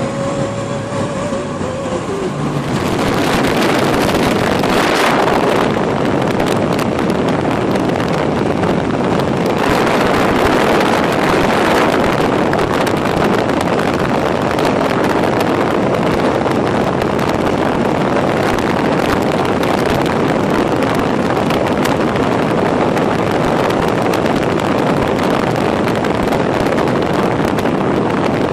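Loud, steady rushing of wind and road noise in a moving car, which jumps up sharply about three seconds in and then holds.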